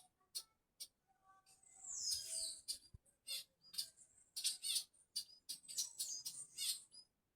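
Small birds chirping in many short, high-pitched calls, with a burst of overlapping falling notes about two seconds in.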